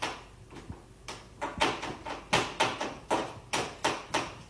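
A quick, irregular run of light knocks, about two to three a second, starting about a second in.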